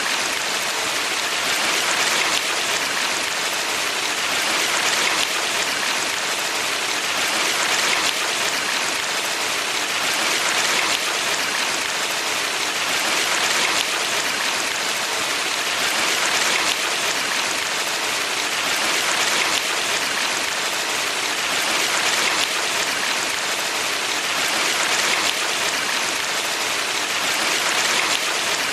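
Steady hiss of running water from a valley stream, swelling gently and regularly about every three seconds.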